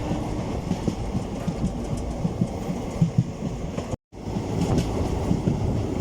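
Indian Railways train running on the track: a steady low rumble with irregular rattling knocks from the wheels. The sound cuts out completely for a moment about four seconds in, then carries on.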